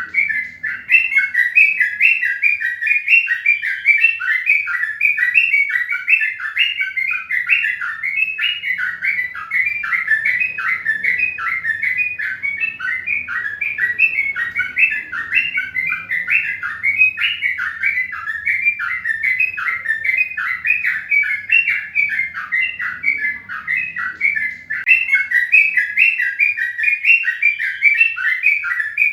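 A bird chirping without pause, short repeated chirps at about four a second.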